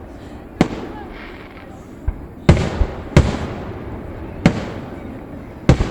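Aerial fireworks bursting: about half a dozen sharp booms in six seconds, two of them close together around the middle, each followed by an echoing rumble that fades away.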